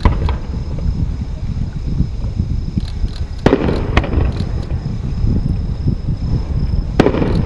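Aerial firework shells bursting: four sharp bangs, one at the start, two about half a second apart in the middle, and one near the end.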